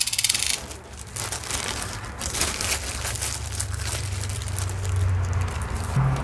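Rustling and crinkling with many small irregular clicks as beads and jewelry pieces are handled.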